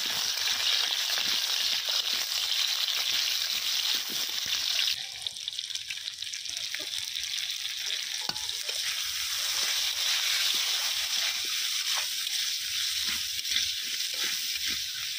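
Potato chunks sizzling in hot oil in an iron kadai, stirred with a flat metal spatula that scrapes and ticks against the pan now and then. The sizzle is a steady hiss that grows a little thinner about five seconds in.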